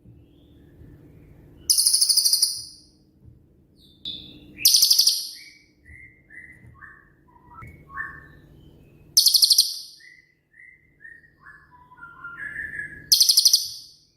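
Cililin songbird singing: four loud, high, rapid rattling bursts (the 'tembakan' shots), spaced a few seconds apart, with runs of short whistled notes stepping down in pitch between them. A faint steady low hum runs underneath.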